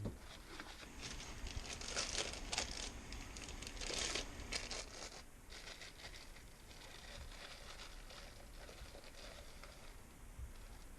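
Packaging being torn and crinkled open by hand: irregular rustling and ripping for the first few seconds, then fainter handling.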